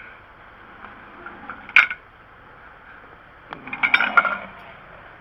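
Metal tools being handled, clinking and clattering: one sharp clink a little under two seconds in, then a quick run of rattling metallic clinks around four seconds in.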